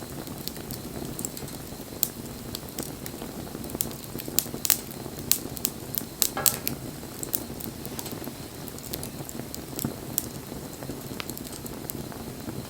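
Wood fire burning: a steady low rush of flames with frequent sharp crackles and pops, busiest in the middle, and a brief hiss about halfway through.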